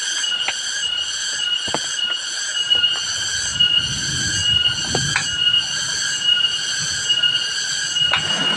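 Shrill steady chorus of forest insects, pulsing about two to three times a second, with scattered sharp taps like water drips.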